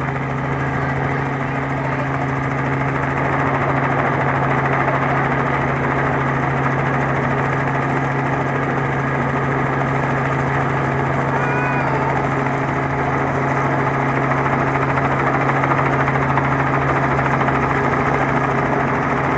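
Helicopter running overhead: a steady, unchanging engine and rotor drone with a constant low hum.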